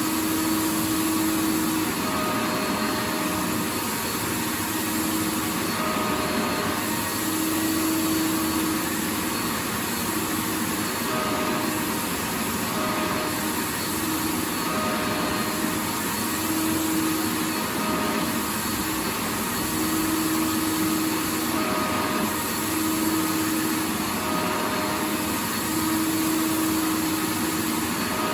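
Vacuum cleaner running continuously: a steady rush of air with a motor hum whose tone fades in and out every second or two.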